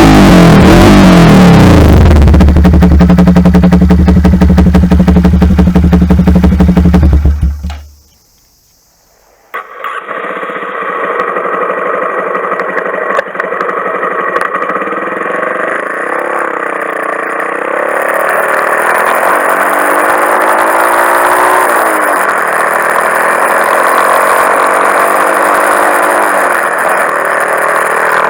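Honda Monkey 125's single-cylinder engine running loud through a full Akrapovič exhaust, held at high revs for several seconds before dropping away to silence. About a second and a half later a quieter engine sound comes in, its pitch drifting slowly up and down.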